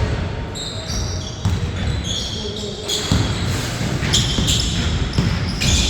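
Basketball bouncing on the court in play, with repeated thuds, and several short high squeaks of sneakers skidding on the floor, in clusters about a second in and again past the four-second mark.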